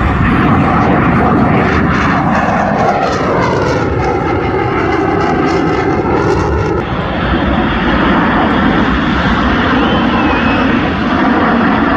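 Military fighter jet flying past, with loud, steady jet engine noise and a sweeping, phasing tone as it passes. An abrupt change about seven seconds in, where another loud jet pass takes over.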